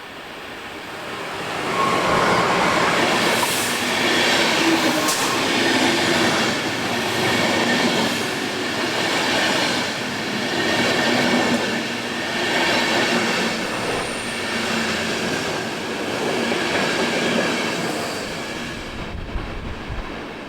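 A train passing along the platform in a long station hall: its rolling noise swells over the first two seconds, holds loud with some wheel squeal over it, and dies away near the end.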